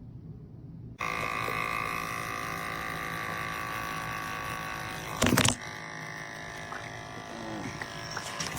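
Small espresso machine's pump buzzing steadily as it brews, starting abruptly about a second in. A loud, short burst of noise cuts across it a little past halfway.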